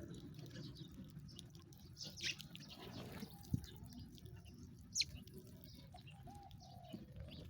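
Sparrows chirping: a few sparse, quick chirps that sweep sharply downward, two of them louder, over a faint low background hum. A single brief low knock sounds about halfway through.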